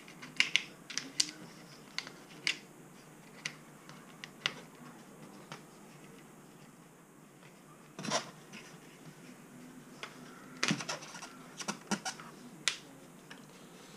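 Irregular sharp clicks and taps of small plastic parts being handled, with a heavier knock about eight seconds in and a quicker run of clicks a little later.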